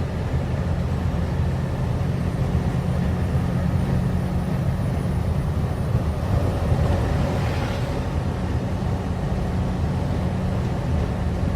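Straight truck rolling at a steady speed: a constant low engine drone with road noise.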